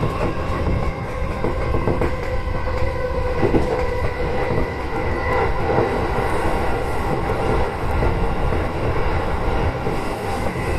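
Electric commuter train running along the track, heard from inside the driver's cab: a steady rumble of wheels on rails with a faint steady whine above it.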